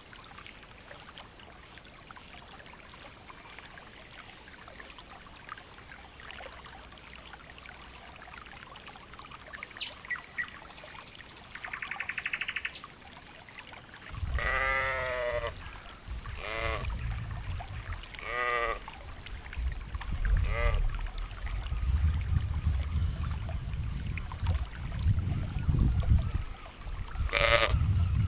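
Sheep bleating: four wavering bleats from about halfway through, roughly two seconds apart, and one more near the end. A steady high-pitched trill runs underneath throughout, and a low rumble comes in with the first bleat.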